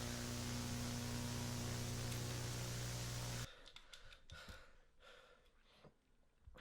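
A steady hiss of static with a low hum cuts off abruptly a little past halfway. Quiet breathing and sighs follow.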